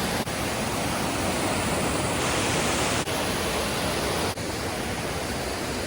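Waterfall rushing steadily and loudly, an even wash of falling water, broken by a few brief cuts.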